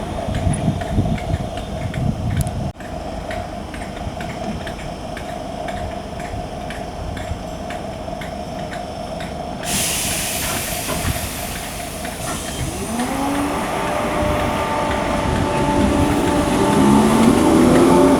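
Merseyrail Class 507/508 electric multiple unit at the platform: a steady electrical hum, then a hiss of air about ten seconds in, then the traction motors whining with rising pitch as the train pulls away, getting louder toward the end.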